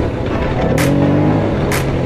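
Yamaha Raptor 80 quad's small single-cylinder engine running under way, its pitch rising as it revs up about a second in. Background music with a steady beat of about one hit a second plays over it.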